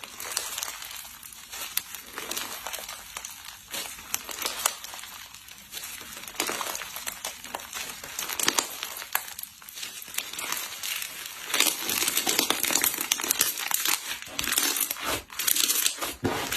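Slime being squeezed and pressed by hand: a dense run of small crackling, crinkling pops, louder from about twelve seconds in.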